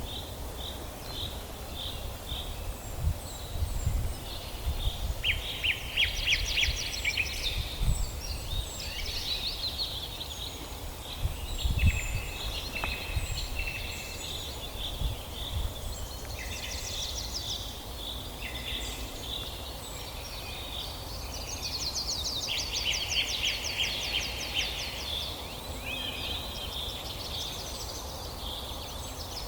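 Several songbirds singing and calling together in a forest, with short chirps and whistles and a few fast rattling trills, over a low outdoor rumble with a few dull thumps.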